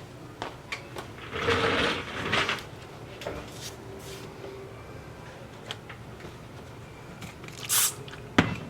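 Handling noises in a small room: scattered clicks and knocks, with a longer rustling clatter about a second and a half in and a short hiss followed by a sharp knock near the end.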